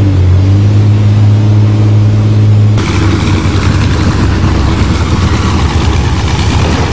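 Vehicle engines running at high revs under heavy load while pushing against each other, a steady hum at first; about three seconds in the sound switches abruptly to a rougher, noisier engine roar with more hiss.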